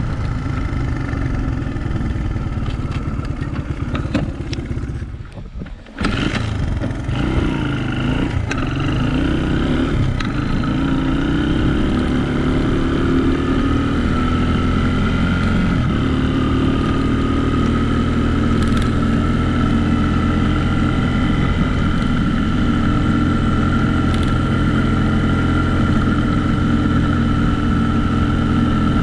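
Dirt bike engine running as the bike rides along, dropping out briefly about six seconds in, then rising in pitch as it picks up speed and settling to a steady cruise.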